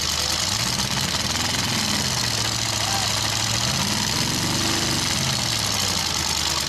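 Demolition derby trucks' engines running and revving, their pitch rising and falling several times over a steady loud hiss.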